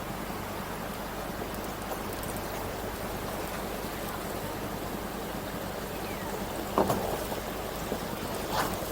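Steady rush of flowing river water, with a brief sharper sound about seven seconds in and another shortly before the end.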